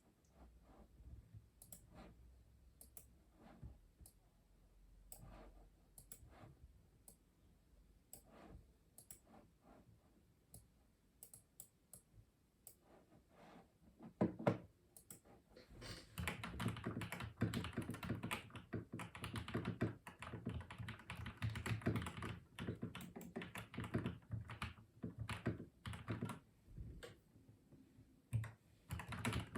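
Typing on a custom mechanical keyboard. Scattered single keystrokes come first, with a louder stroke a little before halfway. From about the middle the typing turns fast and continuous for roughly ten seconds, then slows back to a few keystrokes.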